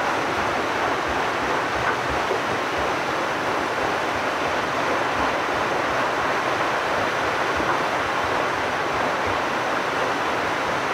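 Water rushing and splashing steadily at a watermill's wheel and millrace, an even rush with no breaks.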